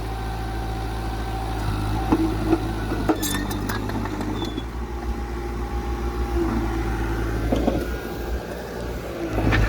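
Diesel engine of heavy earthmoving equipment running steadily with a low drone, with a few short metallic clinks about two to three seconds in.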